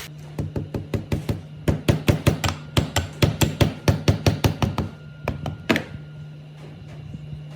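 A rapid series of knocks, about four or five a second for several seconds, with a sharper single knock near the end. A steady low hum runs underneath.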